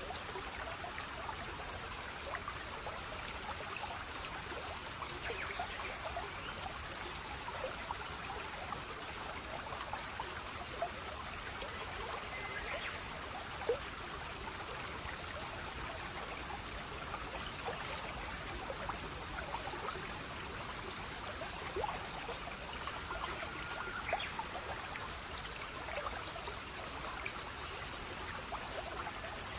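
Water in a small stream trickling and babbling steadily, with scattered drips and splashes, one a little louder about halfway through.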